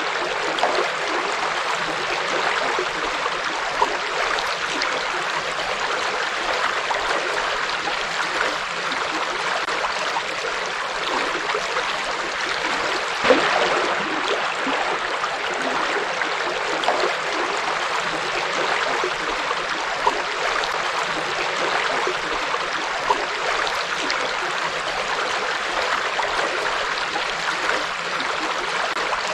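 Forest river flowing: a steady rush of running water with small brief splashy peaks scattered through it, the clearest about 13 seconds in.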